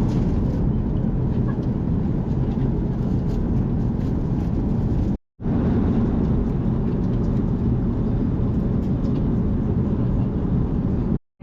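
Steady low rushing cabin noise of an Airbus A380 airliner, broken by a brief dropout about five seconds in.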